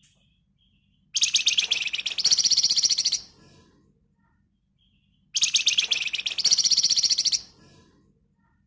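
Flamboyan songbird giving two rapid, dense rattling trills (the 'ngebren' song), each about two seconds long, stepping up in pitch partway through.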